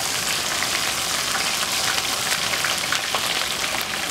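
Panko-breaded green tomato slices deep-frying in hot canola oil in an electric fry pan: a steady sizzle speckled with many small crackles and pops.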